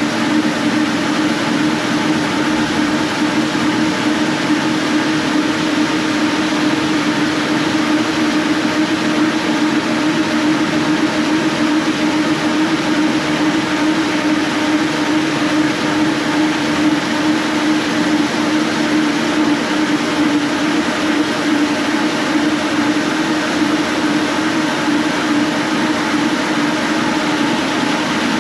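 Hyper Grinder four-disc floor sanding machine running steadily, its all-steel head grinding paint off a wood floor: a loud, even machine noise with a strong steady low hum under a broad hiss.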